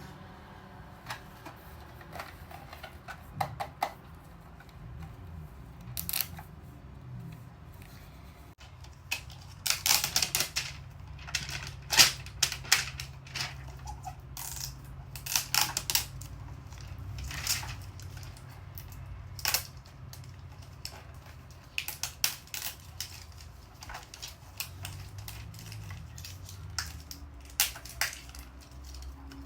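Irregular clicks, crackles and taps of plastic packaging and small plastic toy pieces being handled and opened, some sharp and loud, over a low steady hum.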